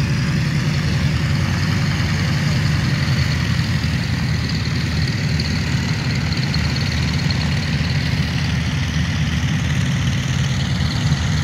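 Twin radial engines of a Beech 18 running steadily at low power before take-off, a deep even rumble with propeller wash noise.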